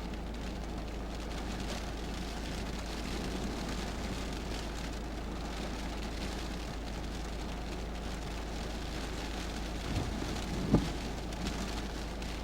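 Typhoon rain and wind making a steady, even rush, with a single sharp thump about eleven seconds in.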